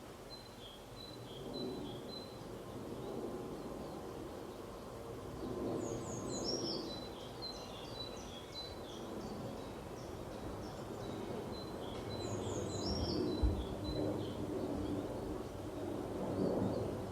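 Small birds chirping in short, repeated high calls over steady outdoor background noise. The calls come in a busier flurry about six seconds in and again around thirteen seconds.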